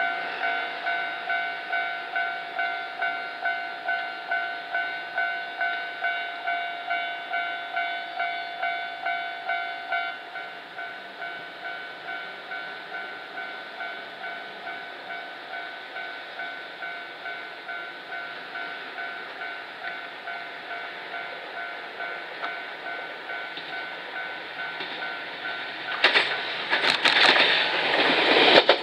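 Level crossing alarm ringing with an even beat of about two strokes a second; about ten seconds in its tone thins and drops in level. Near the end an Enshū Railway 1000-series electric train runs past, a loud rush of wheel and running noise.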